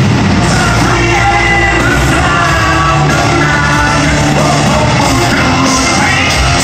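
Hard-rock band playing live with a singer belting the vocal line over distorted guitars, bass and drums, loud and unbroken.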